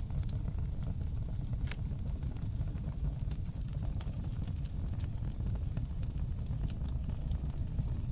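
Fire burning in a stone fireplace: a steady low rumble of flames with scattered sharp crackles and pops, a louder pop about two seconds in.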